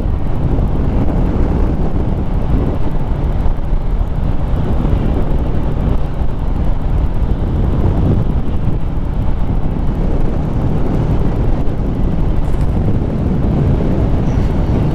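Harley-Davidson Street Rod 750's V-twin engine running steadily while riding, mixed with heavy wind buffeting on the microphone.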